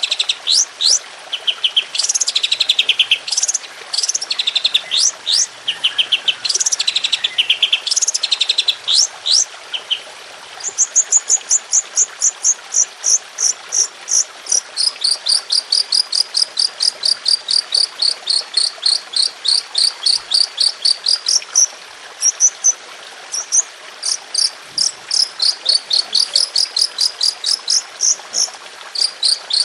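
Songbird song in the rapid-fire 'tembakan' style used as masteran training audio: loud, high, fast series of sharp notes. It opens with quick phrases of sweeping notes, then from about a third of the way in settles into long runs of evenly spaced clipped notes, about five a second, which drop in pitch partway through.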